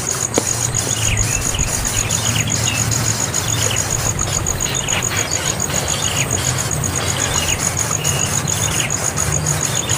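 Bird chirping in short, scattered calls that drop in pitch, over a steady high insect trill pulsing fast and evenly, with a low hum underneath.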